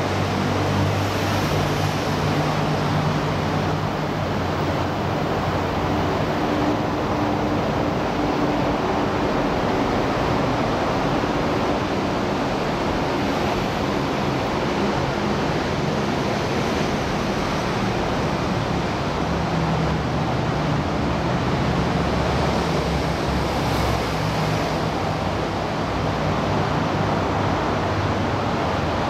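MTR East Rail SP1900 electric train pulling away from the platform: steady rumble and rush of noise, with a low motor hum that fades over the first several seconds.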